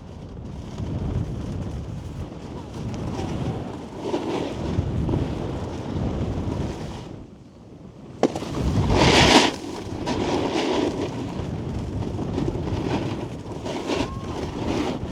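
Snowboard sliding and carving on packed snow, its edges scraping, with wind rushing over the microphone. About halfway through it goes quieter for a moment, then a sharp knock is followed by a loud scrape of the board on the snow.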